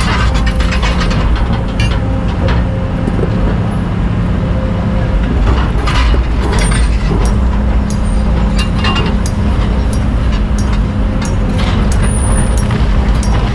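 A hydraulic excavator's diesel engine running steadily under load, with repeated clanks and scrapes of the bucket and rock in the sand. The engine note firms up about eleven seconds in.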